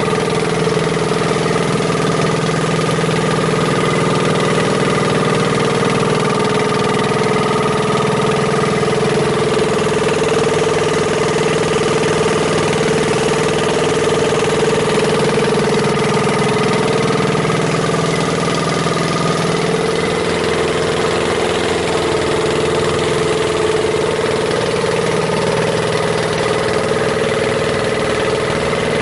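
Longtail boat engine running steadily, an even droning hum that holds the same speed throughout.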